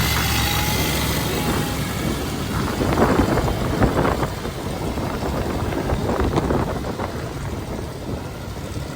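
A vehicle engine running under a rough, continuous noise, with a few short clanks partway through.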